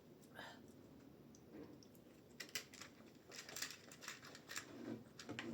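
Faint close-up chewing of momo dumplings: small wet clicks and mouth smacks, scattered at first and coming quickly in the second half.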